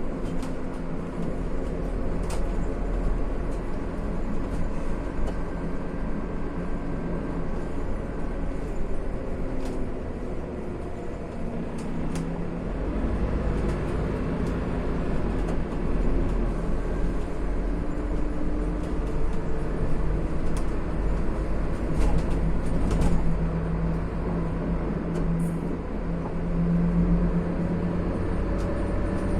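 Scania CN280UB city bus heard from inside while under way: the diesel engine running, its pitch rising and falling as the bus speeds up and slows, with scattered clicks and rattles from the cabin.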